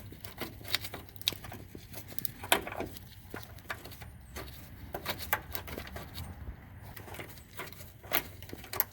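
Irregular metallic clicks and clinks of a wrench and socket loosening and backing out a rusty 12 mm bolt on a clutch damper bracket, with a sharper knock about two and a half seconds in.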